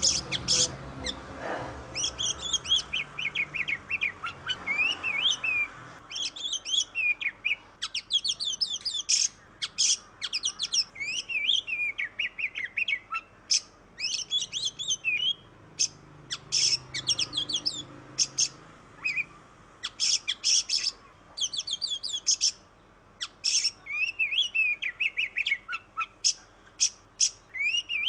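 Oriental magpie-robin (kacer) singing loudly: fast, varied phrases of whistles, trills and sharp chips in bursts of a second or two, with short pauses between them. This is the kind of aggressive song used to provoke a silent kacer into singing.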